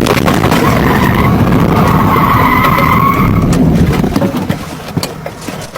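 Car tyres skidding and squealing in a crash. The sound is loud for about four seconds, then dies away, with a few scattered clicks and knocks near the end.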